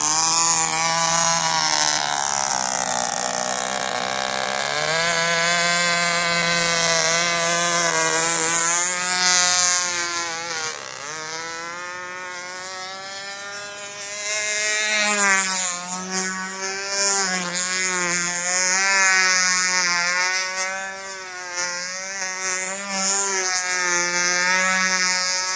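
O.S. .20 FP two-stroke glow engine of a control-line model plane running at high revs, a steady high-pitched buzz whose pitch sags and climbs again several times, with a clear drop in pitch about fifteen seconds in.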